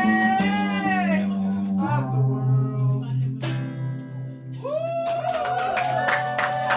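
Live band music: a singer holds long, wavering notes over guitar and a steady bass line, a fresh held note starting near the end.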